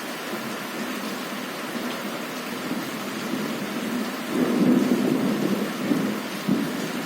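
Steady heavy rain, with a rumble of thunder swelling up a little past halfway, loudest for about a second, then fading back under the rain.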